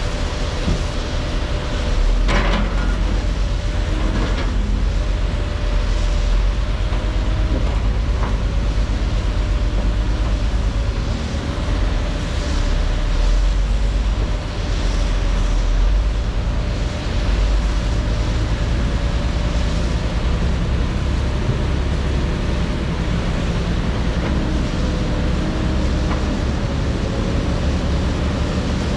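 Heavy diesel construction machinery running steadily under load, with a low rumble and a faint wavering whine, and a couple of sharp clanks about two and four seconds in.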